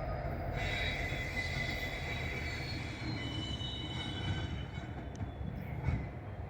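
Illinois Central freight train rolling by, its steel wheels squealing against the rail in several high, steady tones that start about half a second in, over a low rumble.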